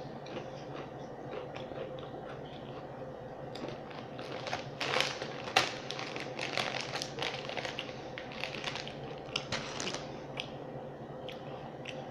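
Potato chips crunching as they are chewed close to the microphone: irregular sharp crackles, thickest in the middle of the stretch, over a steady low hum.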